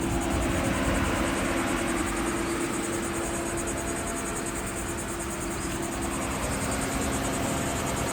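Insects trilling in a fast, even pulse, over a steady low hum and rumble.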